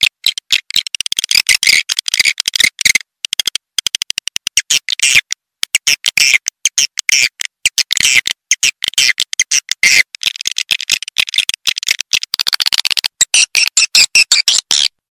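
Swiftlet call recording: rapid trains of high, twittering chirps and clicks in quick bursts, a lure call for drawing swiftlets to a nesting house. It cuts off suddenly near the end.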